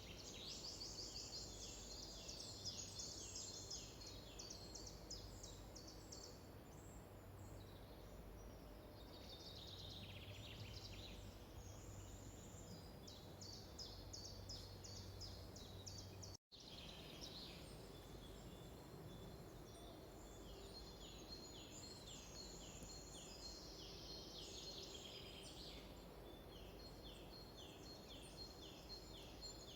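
Faint forest birdsong: songbirds repeating runs of quick, high, falling notes. A steady low hum runs under the first half and stops at a brief dropout about halfway through.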